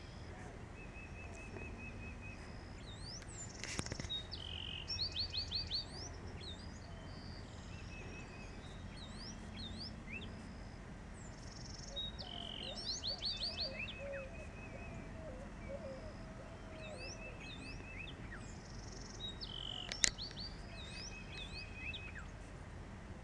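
Several songbirds singing in a mixed chorus: one repeats a quick song of sweeping notes about every eight seconds, another gives a short trill now and then, with scattered chirps between.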